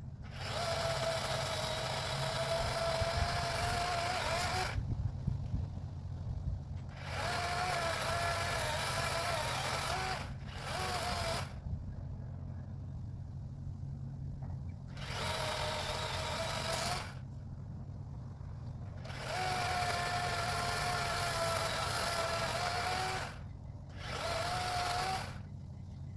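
Battery-powered chainsaw run in six bursts of one to four seconds, with short pauses between, as it cuts through tree limbs. Each burst is a steady electric-motor whine. A low hum runs underneath.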